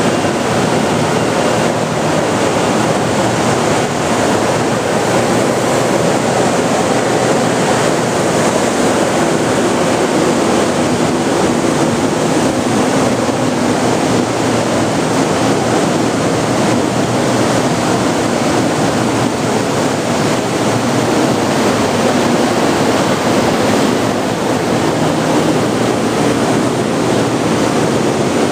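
Steady, even noise of a 100 Series Shinkansen train standing at the platform with its onboard equipment running.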